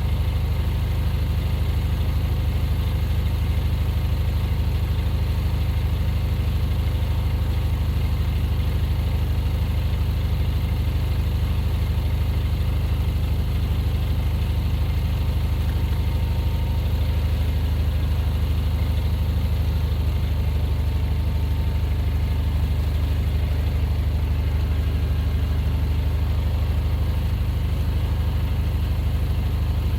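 A vehicle engine running steadily at one speed, a low, even drone with no revving or change for the whole stretch.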